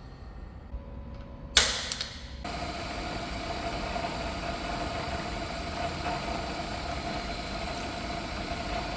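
A sudden loud burst of noise, then a machine starts running steadily with a constant whine in its sound.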